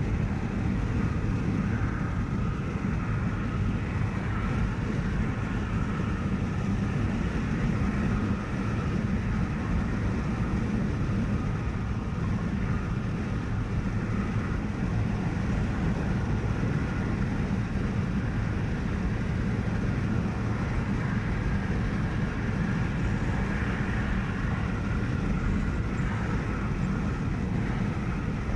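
Steady noise of a car travelling on a highway: tyre and engine noise at an even cruising speed, with no distinct events.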